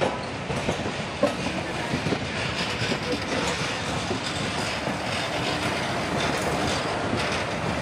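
Express passenger train running on the rails: a steady rumble with scattered clicks of wheels clattering over the track.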